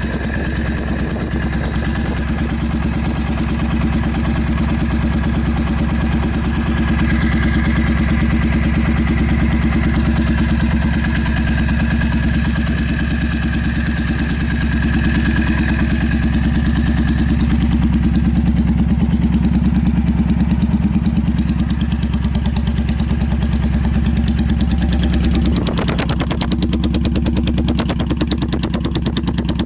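Yamaha Drag Star 400's V-twin engine idling steadily through short, open dual 'trumpet' exhaust pipes, with a quick pulsing beat. The tone shifts briefly about 26 seconds in. The seller's check finds it free of abnormal noises.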